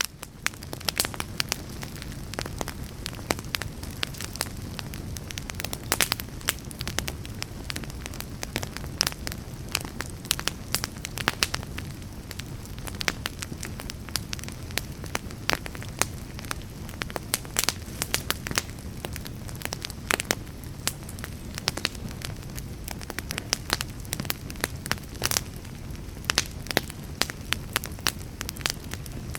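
Wood fire burning: frequent sharp crackles and pops from the burning wood over a steady low rumble of the flames, fading back in from a brief dropout at the very start.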